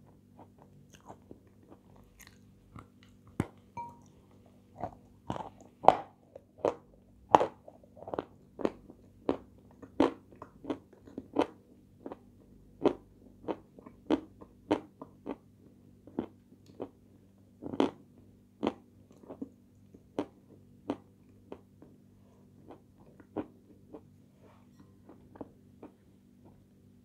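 Close-miked crunchy chewing of a crisp white Turkish sweet: a steady run of sharp crunches about one and a half a second. It starts a few seconds in and thins out toward the end.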